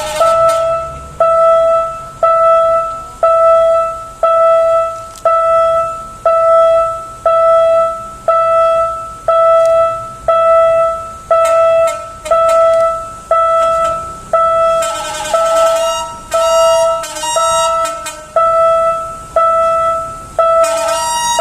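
Railway level-crossing warning bell ringing steadily, one decaying ding about every second. Short horn blasts cut in a little past the middle and again at the very end.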